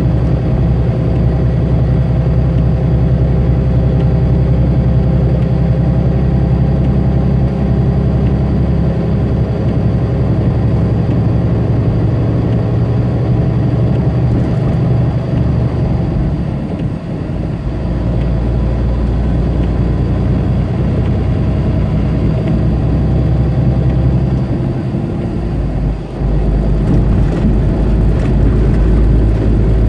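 Tractor-trailer's diesel engine and road noise heard from inside the cab, a steady low drone. The drone dips briefly a little past halfway and again near the end, and the low engine note changes after each dip.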